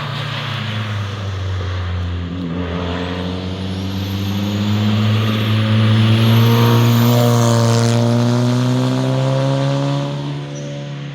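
Car engine and exhaust passing by under acceleration, its pitch climbing steadily and loudest a little past the middle, over a steady low engine drone.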